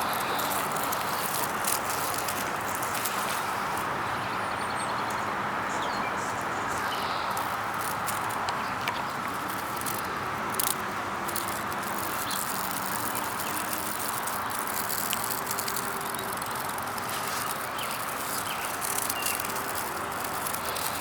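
Chorus of Brood X periodical cicadas: a steady, unbroken droning buzz, with faint chirps and clicks over it.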